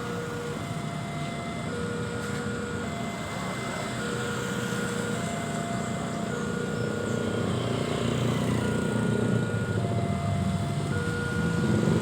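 Railway level-crossing warning alarm sounding a two-tone electronic chime that alternates high and low about once a second, over the rumble of engines that grows louder in the second half.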